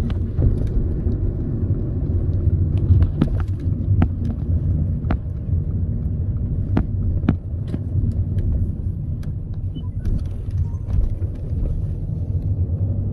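Steady low rumble with many short, sharp ticks and clicks scattered through it.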